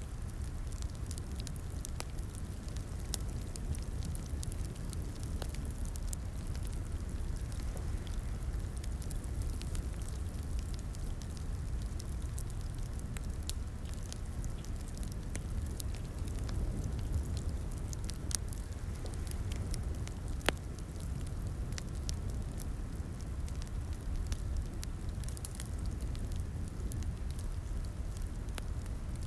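Wood fire crackling in a fireplace: a steady low rumble of flames with irregular sharp pops and snaps, a few louder snaps scattered through.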